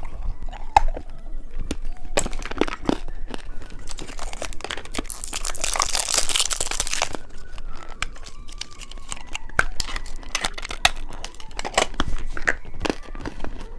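Plastic candy wrappers crinkling and being torn open, with quick crackles throughout and a longer, denser tearing rustle about halfway through.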